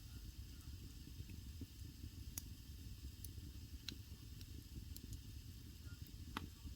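Wood fire burning in an agungi, a Korean traditional firebox: a faint, steady low rumble and hiss with scattered crackles, and a few sharper pops about two and a half, four and six and a half seconds in.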